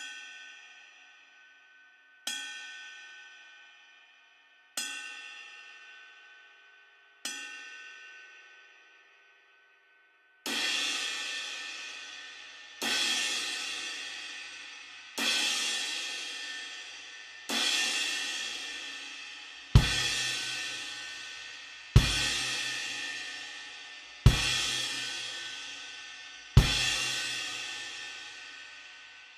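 Istanbul Mehmet IMC Brilliant cymbals struck one at a time, about every two and a half seconds, each left to ring and fade. The first four hits are lighter. The next four are louder, fuller crashes. The last four land together with a deep bass-drum thump.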